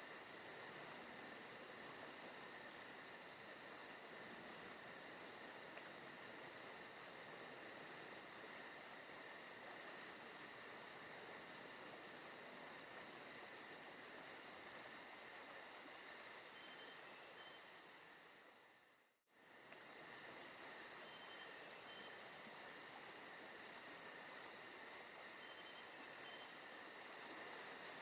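Low-volume forest ambience of crickets and insects chirping steadily, with a fast pulsing trill high up. About two-thirds of the way in it fades out to silence for about a second and comes back: the loop point of the ambience recording.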